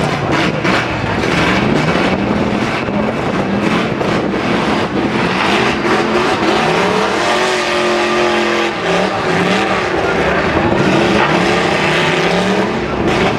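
Demolition derby trucks' engines revving up and falling back over and over, with sharp bangs of metal-on-metal hits near the start. Around the middle, one engine holds a steady high pitch for over a second.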